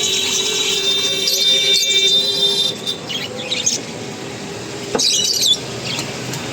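Many caged cockatiels and other small parrots chirping and squawking together, with a loud burst of calls about five seconds in.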